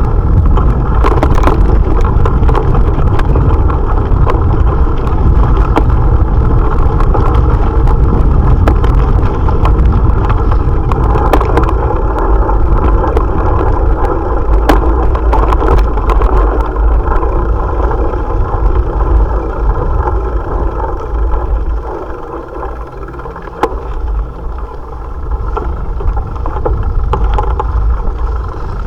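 Wind rushing over an action camera's microphone and road noise while riding a bicycle, with scattered knocks and rattles; it drops quieter for a couple of seconds around 22 seconds in.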